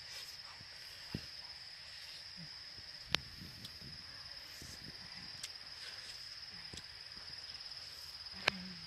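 Steady high-pitched drone of insects, typical of crickets or cicadas. Two sharp clicks stand out, about three seconds in and just before the end, over a few soft low knocks.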